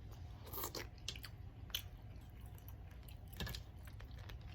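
A person chewing seafood-boil food close to the microphone, with a few short, sharp wet clicks of the mouth and food scattered through it.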